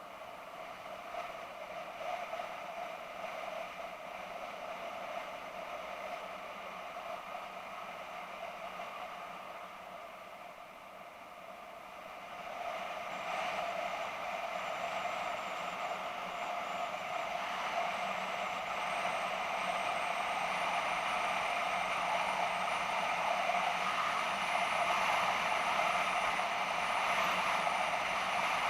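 BMW F650GS motorcycle on the move, engine and wind noise, getting louder about twelve seconds in, with a faint high whine that slowly rises in pitch through the second half.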